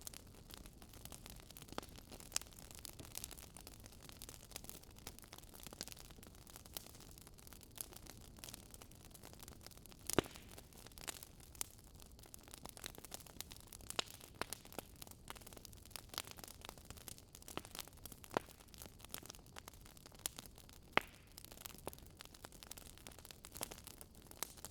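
Faint crackling of a wood campfire: irregular sharp pops and snaps, a few louder ones, over a soft steady hiss.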